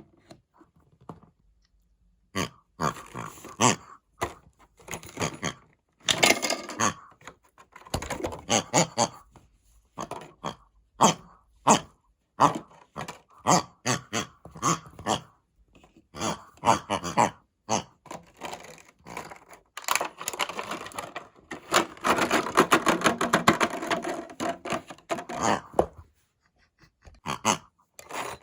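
Plastic toy washing machine and small plastic figures being handled: irregular clacks and scrapes, with a denser rattling stretch about two-thirds of the way through as the drum turns with the figures inside.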